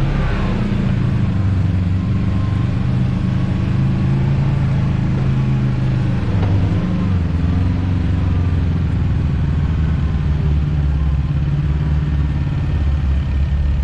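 Side-by-side UTV engine running under load as it crawls over rocks, its pitch rising and falling with the throttle.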